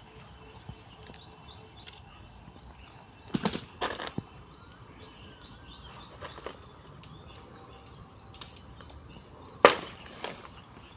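A few sharp knocks and clatters of camping gear being handled while a tent is pitched: a quick cluster about three and a half seconds in and a single loud knock near the end. Short high chirps repeat faintly in the background.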